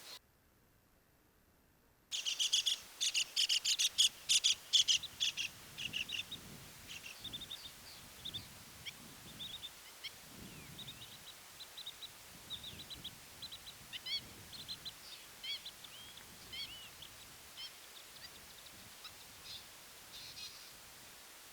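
Birds calling: after a brief near silence, a rapid series of loud, sharp, high calls starts about two seconds in, then thins into softer scattered chirps for the rest of the time.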